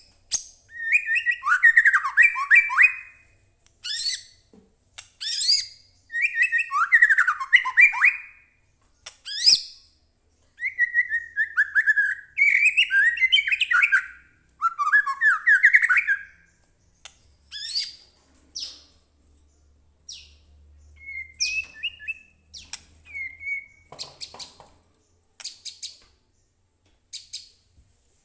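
White-rumped shama (murai batu) singing: loud phrases of rich, varied notes, each a second or two long and mixed with sharp high notes, with short pauses between them. In the last third the song thins to scattered, quieter single notes.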